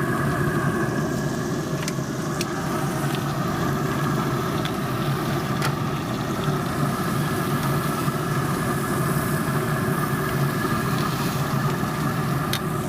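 A steady motor drone with a low hum, unchanging throughout, with a few faint clicks over it.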